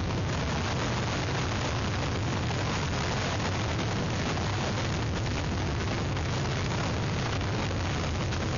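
Hurricane wind blowing hard and steadily across an outdoor webcam microphone: a constant rushing noise over a heavy low rumble of wind buffeting.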